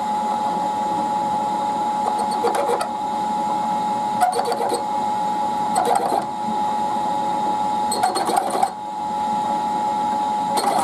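Machine spindle running with a steady whine while a Morse-taper cutting tool is fed into an aluminium workpiece in five short bursts of cutting, each under a second long.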